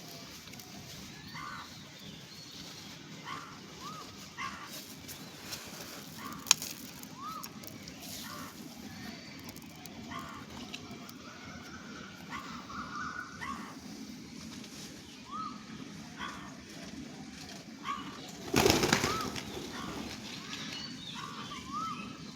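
Small birds calling with short, repeated chirps scattered throughout. About nineteen seconds in there is a loud flutter of wings.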